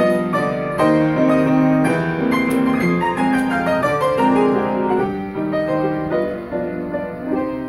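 Grand piano playing a solo instrumental interlude between the sung verses of a Russian romance, with a run of falling notes about four seconds in.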